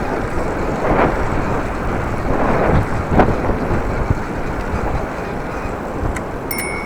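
Heavy wind buffeting the microphone of a moving bicycle, a dense rushing noise that swells in gusts. Near the end a bicycle bell rings once, briefly.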